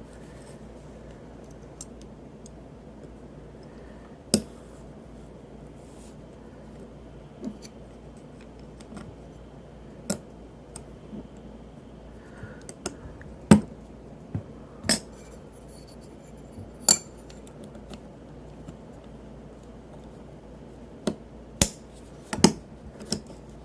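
Sharp, irregular clicks and clinks of small metal knife parts and tools being handled and set down as a Spyderco Paramilitary 2 folding knife is put back together with milled aluminum scales. There are about a dozen separate knocks, a few bunched together near the end.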